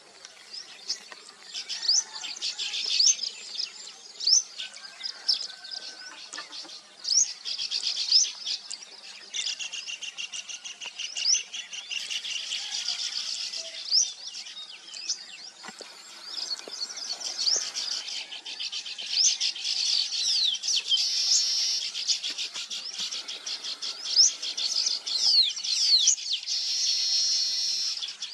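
Many small birds chirping and twittering at once, a dense run of quick overlapping calls and short sweeping notes that never lets up.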